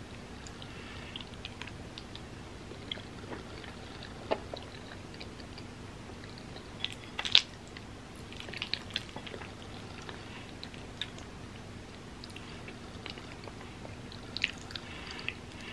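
Close-miked chewing of a mouthful of soft creamy macaroni, with small wet mouth clicks. A few sharp clicks come as the metal spoon scoops from the bowl, the loudest about seven seconds in.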